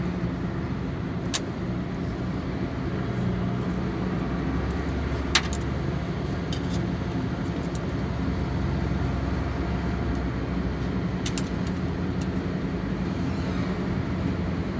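An engine idling steadily, with a few sharp clicks or taps heard over it.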